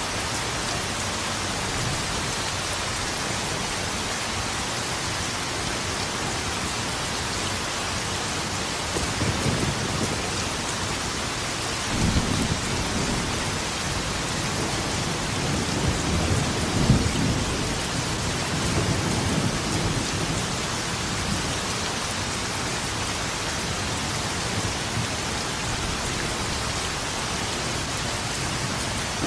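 Steady heavy rain hissing, with rolling thunder rumbling in low swells about a third of the way in and again through the middle, the loudest crack around halfway.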